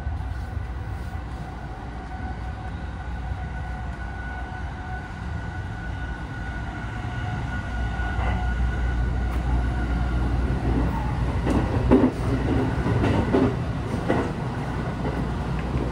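Sunrise Seto sleeper train running, heard from inside a carriage: a steady low rumble with a faint whine, growing louder in the second half, with a short run of clattering knocks about eleven to fourteen seconds in.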